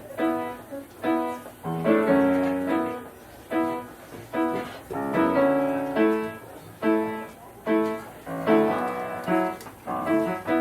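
Piano playing the introduction to a song: short, repeated chords in a lively rhythm, with no voice yet.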